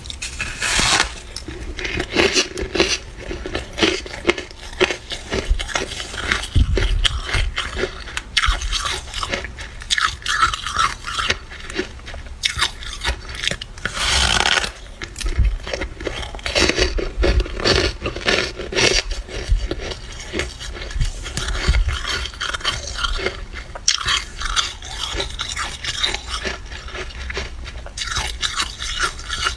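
Flaky freezer frost crunching as it is bitten and chewed, with some scraping: a dense, continuous run of crackly crunches.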